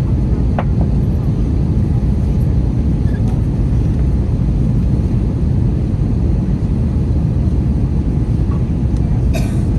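Steady low rumble inside the cabin of an Airbus A321 in flight: airflow and its IAE V2500 engines. A short click sounds about half a second in, and a brief sharper sound comes near the end.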